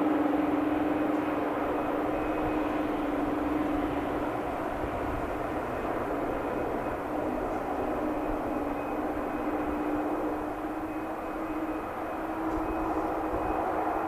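Airliner engines running steadily with a constant hum and a broad rushing noise.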